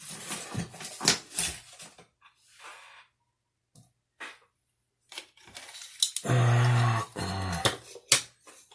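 Small plastic clicks and rubbing as the parts of a Toyota clock spring are handled and fitted back together, with a few separate clicks in between. About six seconds in comes a loud, steady, low-pitched sound lasting about a second and a half, the loudest thing heard.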